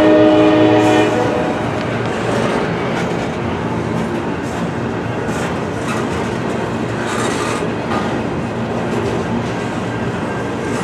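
A freight locomotive's air horn sounds one short chord of several notes at once, cutting off about a second in. Then the steady rumble of the freight train rolling past, with wheels clacking over the rail joints.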